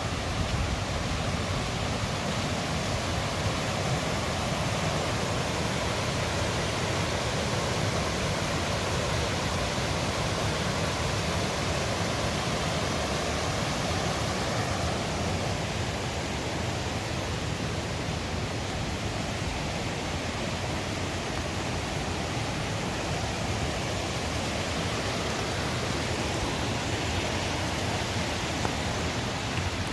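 Steady rush of running water, an even roar with no breaks.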